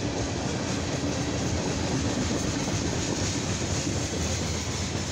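Freight train cars, tank cars and covered hoppers, rolling past on the main line: steady noise of steel wheels running on the rails.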